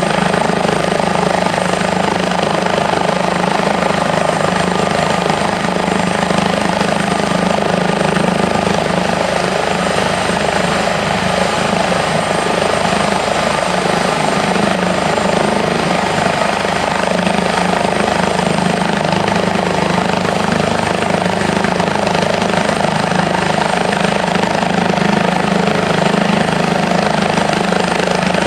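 Airbus H145 helicopter running steadily, its twin turboshaft engines giving a thin high whine over the constant rotor noise, with no change in pitch or level.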